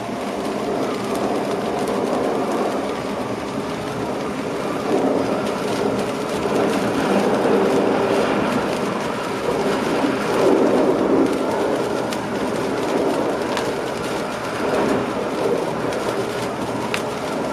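Electric passenger train running along the track, heard from inside the driver's cab: a steady rumble of wheels and running gear on the rails that swells and eases, with a few faint clicks.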